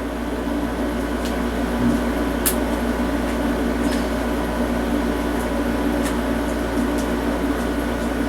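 Steady background hum like a room fan or air conditioner, with a few faint light clicks from small plastic toy parts being handled.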